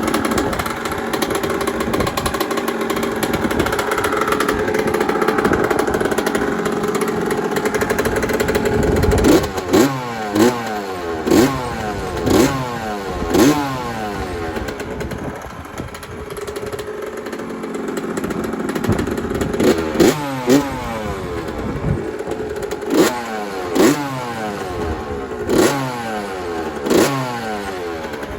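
1983 Yamaha YZ80's two-stroke single-cylinder engine running steadily, then blipped again and again: quick revs that rise and fall straight back, about one a second, in two runs with steady running between.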